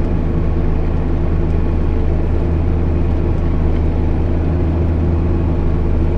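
JCB Fastrac 8250 tractor's six-cylinder diesel engine running steadily, a constant low drone with no change in engine speed.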